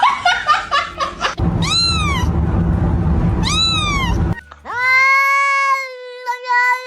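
Domestic cat meowing: two short meows that rise and fall in pitch, then a long, drawn-out meow held at a steady pitch from about five seconds in.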